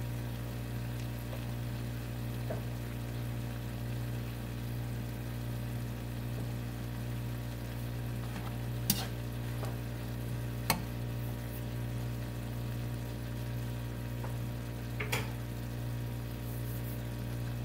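Faint steady sizzle of cooked long beans and pork belly in a nonstick wok, over a steady low hum. Three sharp clicks in the second half, the plastic spatula knocking against the pan.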